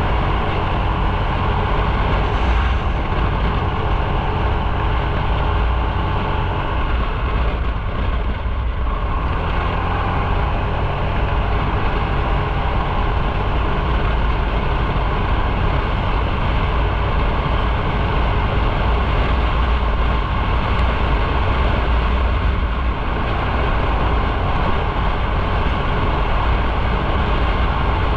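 Motorcycle engine running steadily under way, mixed with road and wind rush, easing briefly about eight seconds in.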